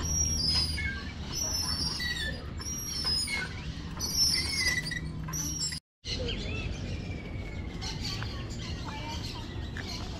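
Birds chirping and calling: quick high chirps and short falling slurs, repeated over and over. The sound cuts out for a moment about six seconds in. After that the calls are fainter, with one long falling whistle, over a steady low rumble.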